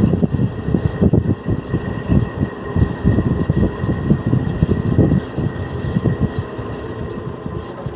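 Split AC outdoor unit's fan motor running with a worn bearing, giving an irregular crackling rattle over a low hum. The bearing is dragging and overheating the motor. The noise fades toward the end as the unit is switched off at the supply and winds down.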